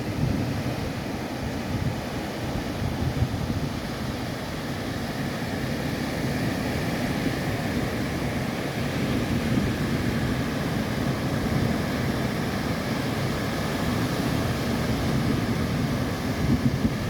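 A baler running steadily, its machinery and drive engine making a continuous mechanical noise.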